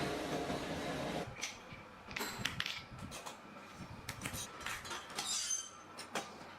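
A workshop machine motor runs with a steady hum and stops about a second in, followed by scattered metallic clinks and clicks of metal parts being handled.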